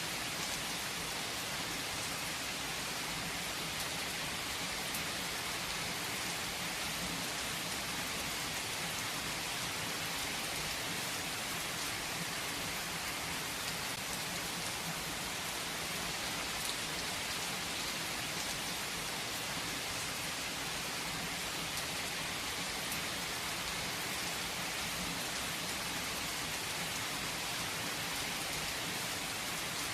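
Steady rain falling, an even, unchanging hiss of drops.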